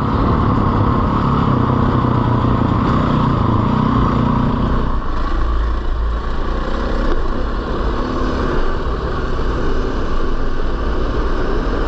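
A 450 cc four-stroke single-cylinder dirt bike engine running under way, with a strong low rumble beneath it; the engine note eases off about five seconds in.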